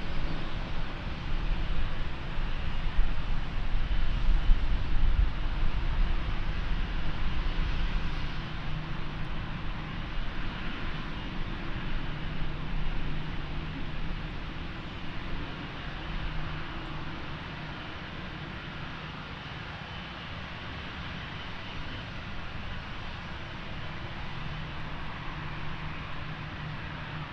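Airbus A321neo's geared turbofan engines at takeoff thrust as it departs: a loud jet engine sound with a deep rumble for the first eight seconds or so, then slowly fading.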